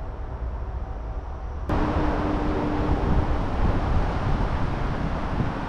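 Wind rumbling on the microphone with steady outdoor noise. It gets louder at a cut about two seconds in, and a faint steady hum is heard briefly after the cut.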